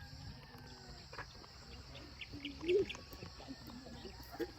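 Quiet open-air ambience with faint, scattered short animal and bird calls, one louder brief rising call a little before three seconds in.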